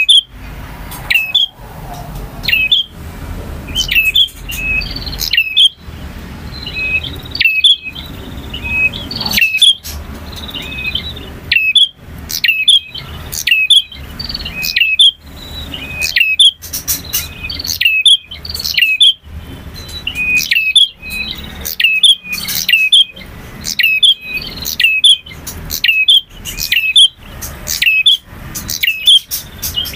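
Male prinia (prenjak) singing: loud, sharp chirping notes repeated rapidly in clusters, several a second, with no pause.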